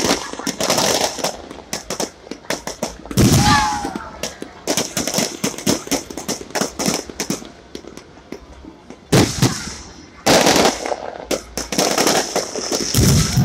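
Aerial fireworks going off: dense crackling and popping, with heavier bangs about three seconds in, twice more around nine to ten seconds, and again near the end.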